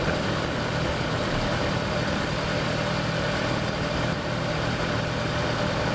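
Kawasaki Versys motorcycle engine running steadily while cruising on the highway, with a steady rush of wind noise.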